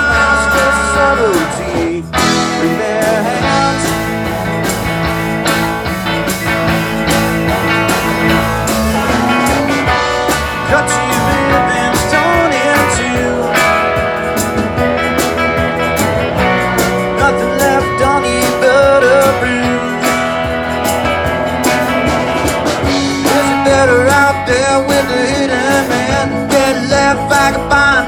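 A live band playing a blues-rock song, with guitar, a steady beat and a wavering lead melody line over it.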